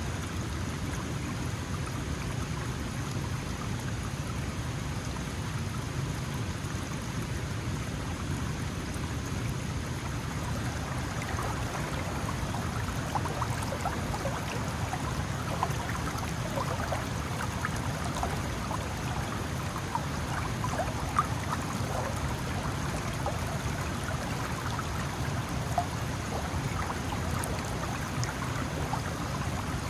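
Small mountain stream flowing steadily. From about ten seconds in, many brief splashes and plinks of water ride on top of the flow.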